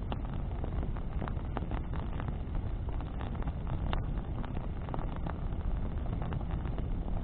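Bonfire crackling, with frequent sharp pops and snaps over a steady low rumble.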